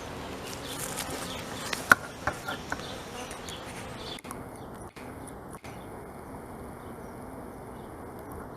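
Honeybees buzzing steadily around an open hive. A sharp click about two seconds in, followed by a few fainter clicks, from frames or tools being handled.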